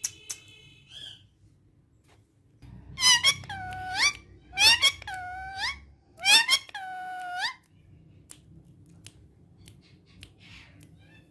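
Female ringneck parrot giving three drawn-out squeaky calls, each about a second long, holding a steady pitch and then rising sharply at the end.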